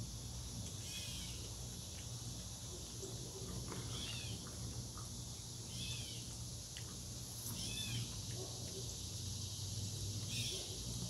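A bird repeating a short call that rises and falls, about every two to three seconds, over quiet outdoor ambience with a steady high hiss and a low hum.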